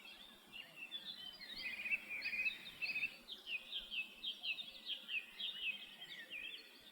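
Small birds chirping: a run of many short, quick, falling calls that crowd together in the middle and thin out near the end.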